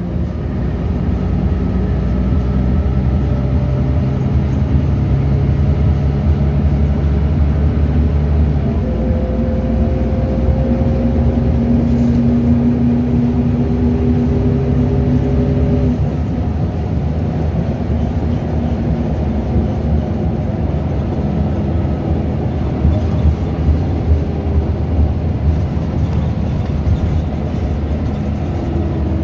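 Scania DC9 9.0-litre diesel engine of a bus running under way, its note stepping to a new pitch about 9 seconds in and again about 16 seconds in as the ZF Ecomat automatic gearbox changes gear.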